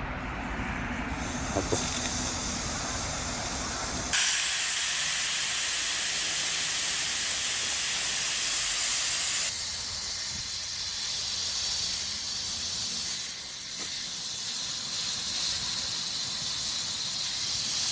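A steady, loud hiss of spraying, rising a step about a second in and growing louder about four seconds in.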